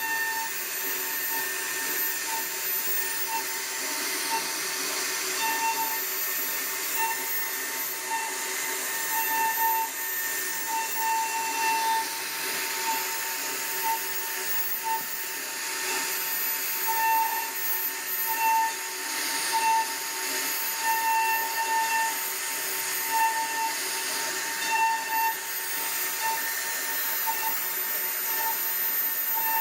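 CNC router spindle running while its bit cuts wood: a steady high whine over a constant hiss, the whine swelling and dipping every second or so as the bit works.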